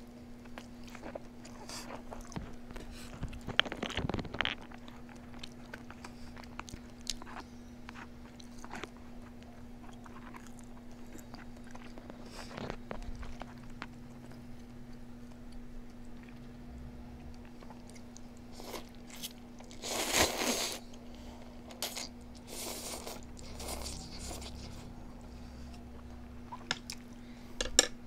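Close-miked eating sounds: biting into and chewing food, with crunches and wet mouth clicks coming irregularly, and a louder, longer crunching stretch about twenty seconds in. A faint steady hum runs underneath.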